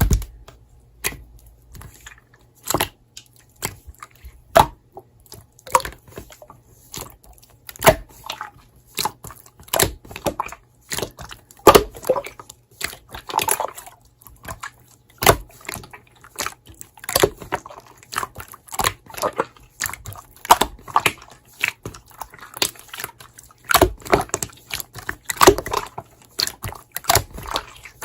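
Slime being squished and pressed by hand, making irregular wet clicks and pops, a few a second.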